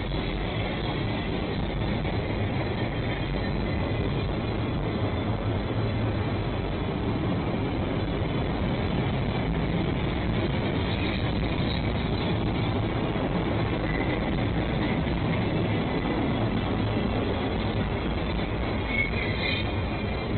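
Freight train cars rolling past on the rails: a steady rumble and clatter of wheels on track, with a few faint, brief high squeaks near the end.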